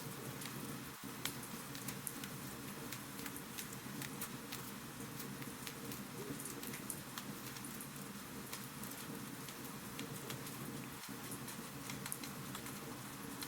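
Wood fire crackling in a fireplace: frequent small, irregular pops and snaps over a steady soft hiss.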